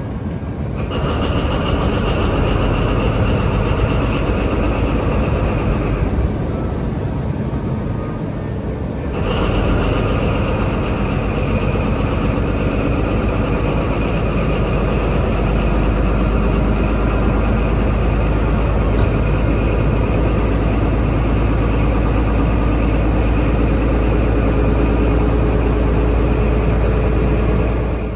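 Paxman VP185 V12 diesel engine of a Class 43 HST power car running steadily, getting louder about a second in, easing off around six seconds and coming back up about nine seconds in.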